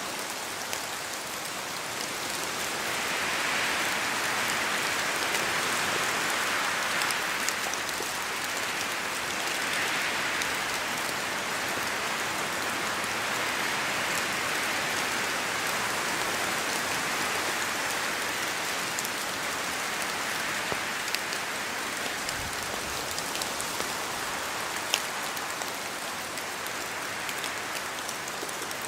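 Steady rain falling on a forest, with slow swells as the wind picks up and eases, and the odd sharp tick of a single drop striking close by.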